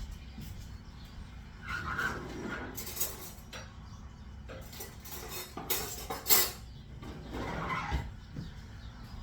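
Dishes and utensils clattering and clinking several times, loudest a little past the middle, over a steady low background rumble.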